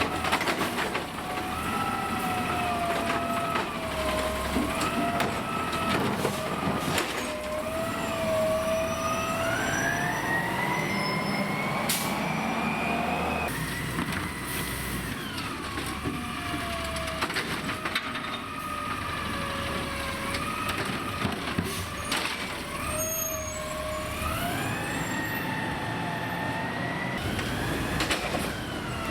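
Autocar New Way automated side-loader garbage truck working its arm on recycling carts, the engine revving and the hydraulics whining. The whine glides up and down several times, climbing highest around the middle before dropping. A few sharp knocks come from the carts being slammed and shaken over the hopper.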